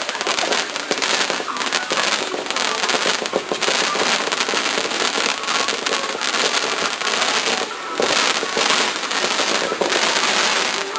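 Starmine aerial fireworks going off in a rapid barrage: a dense, continuous crackling of many bursting shells, easing briefly twice.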